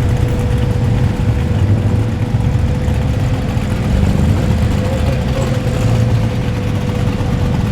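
Muscle car engines idling with a loud, uneven low rumble. A faint steady tone runs under it.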